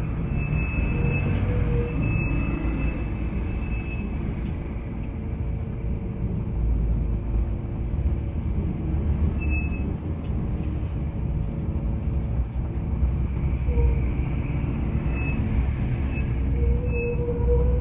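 A large vehicle running: a steady low rumble with brief high squeals now and then and a short rising tone near the end.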